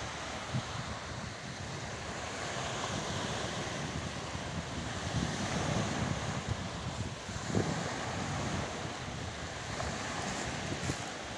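Wind gusting on the microphone over a steady rush of fjord water.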